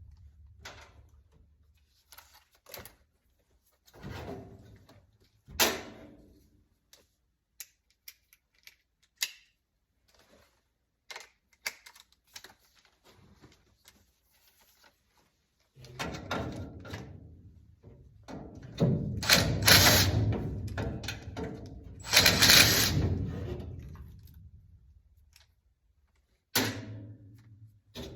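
Handling sounds from work on a gas furnace's inducer motor and housing: scattered clicks and knocks, then longer, louder stretches of rattling and shuffling about halfway through.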